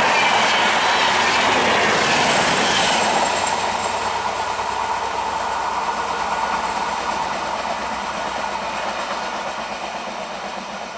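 Indian Railways express train passing at speed, its wheels clattering over the rail joints with a faint squeal; loud for the first few seconds, then fading steadily as it moves away.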